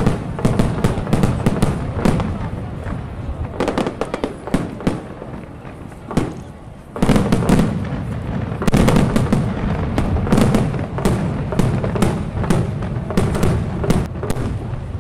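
Daytime fireworks display: rapid volleys of bangs and crackling over a low rumble. The volleys ease off about six seconds in, then pick up again with a loud burst about a second later.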